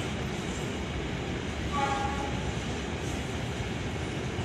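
Passenger train carriages rolling past on the rails with a steady rumble. A short horn toot sounds about two seconds in.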